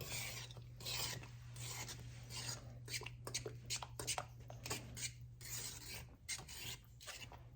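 A utensil stirring a marmalade-and-cornstarch sauce in a bowl: quick, irregular scraping strokes against the bowl, over a faint steady low hum.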